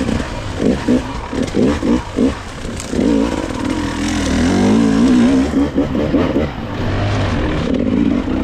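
Dirt bike engine under the rider's throttle on a trail. For the first few seconds the throttle is blipped on and off in quick bursts, then it is held at steadier revs that rise and fall.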